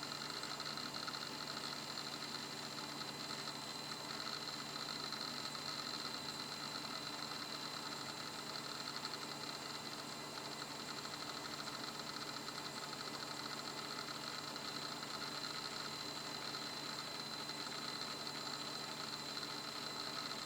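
A 2 GB Toshiba laptop hard disk drive from a Libretto 50CT spinning, giving a steady high-pitched whine over a faint hiss and hum.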